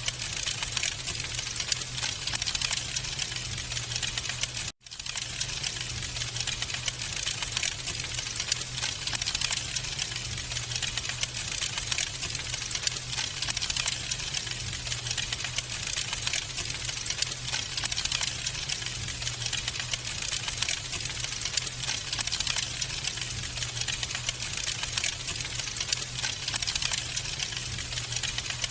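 Wood fire crackling, with dense rapid pops and snaps over a steady hiss and a low steady hum underneath. The sound cuts out for an instant about five seconds in.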